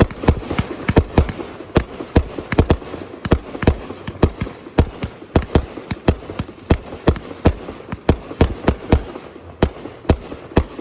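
Aerial fireworks bursting in rapid succession, about four sharp bangs a second with crackling between them.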